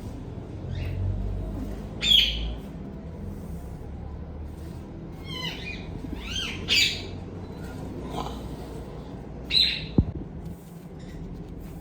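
Ringneck parrots calling: a few short, harsh calls about two seconds in, a cluster of calls around the middle, and another call near the end. A sharp knock follows the last call, and a low steady hum runs underneath.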